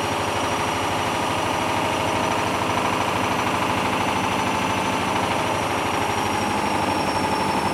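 Hoover Dynamic washing machine on its fifth spin, the drum motor whining steadily over a fast, even rattling vibration.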